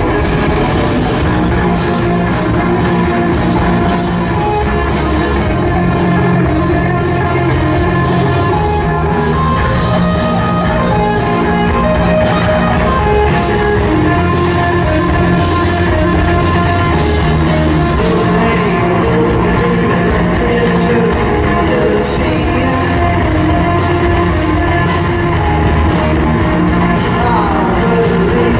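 Live rock band playing loud, steady rock music with drums keeping a regular beat, electric guitar and vocals.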